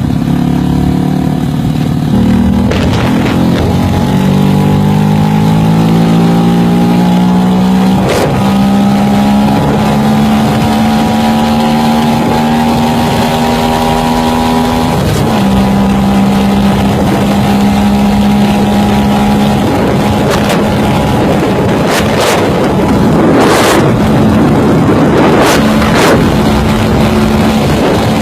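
Engine of a small ride-on vehicle driving under power. Its pitch climbs, drops suddenly about 8 and 15 seconds in like gear changes, then holds steady, with gusts of wind noise near the end.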